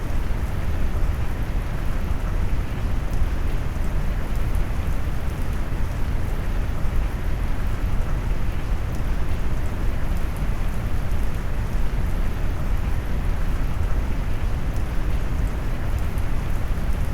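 Steady rain mixed with brown noise: a deep, even rumbling hiss weighted to the low end, with faint raindrop ticks on top. It holds constant throughout, with no distinct thunder claps.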